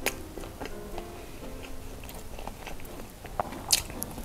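Close-miked chewing: wet mouth clicks and smacks of someone eating with his mouth, with a sharper click about three and a half seconds in. A soft melody plays underneath.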